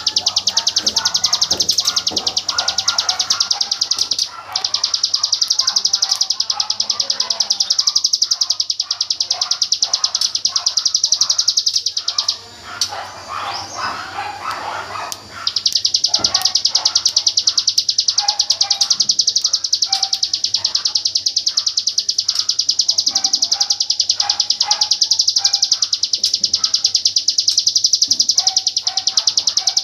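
Ciblek gunung, a prinia, singing its fast machine-gun rattle: a long run of very rapid, even, high-pitched notes that breaks off for about three seconds in the middle and then starts again. Fainter, lower chirps of other birds sound underneath.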